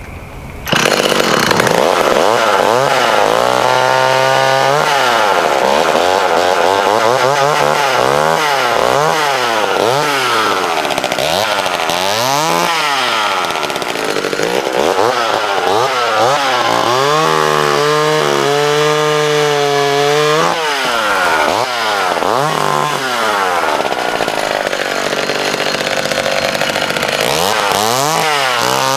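Small two-stroke McCulloch Mini Mac 35 chainsaw engine running loud and being revved up and down over and over, the throttle squeezed and released every second or two, with two longer stretches held at high revs. The sound starts abruptly just under a second in.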